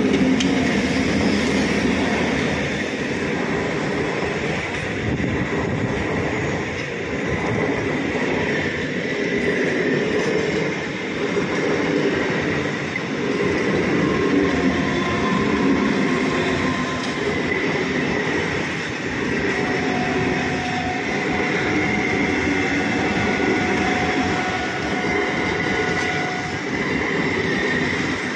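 Indian Railways MEMU electric multiple-unit train passing close by, a continuous rumble and clatter of wheels on the rails. It gets suddenly louder right at the start as the front car arrives. A few steady whining tones come and go in the second half.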